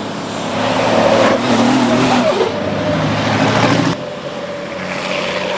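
Racing trucks' diesel engines running at speed, with pitch gliding up and down; the sound is loudest for the first few seconds, then drops suddenly to a quieter, steadier engine note.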